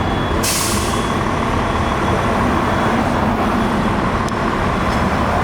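Steady street noise of heavy vehicles running, with a short hiss of air about half a second in.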